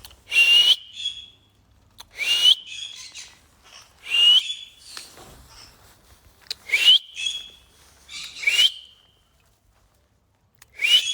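A parrot whistling a short rising call about six times, roughly every two seconds, each call ending on a brief held high note.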